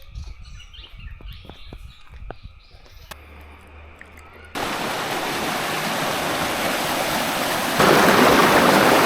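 Rushing water of the Ba Ho cascading waterfall, a steady hiss of falling water that comes in suddenly about halfway through and gets louder near the end. Before it, only faint outdoor ambience with a few light knocks.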